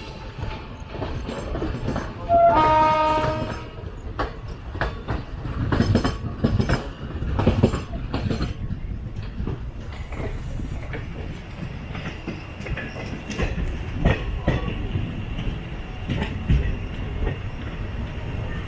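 A train horn sounds once for about a second, with several tones together. Then the wheels of a moving train knock irregularly over rail joints and points, over a steady running rumble.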